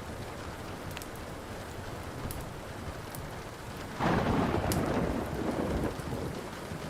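Steady rain with a wood fire crackling in a few sharp pops; about four seconds in, a loud thunderclap breaks in and rumbles for about two seconds before dying away.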